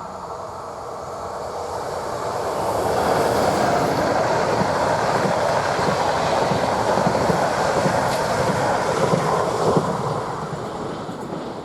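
A train passing by: its running noise builds over the first few seconds, stays loud through the middle, then fades near the end.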